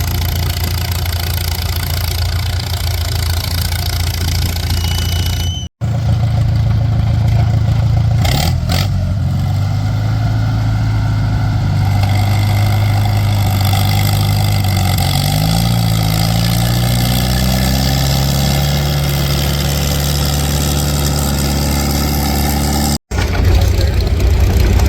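Antique farm tractor engine running, its pitch rising and falling as the revs change. The sound breaks off abruptly twice, about six seconds in and near the end.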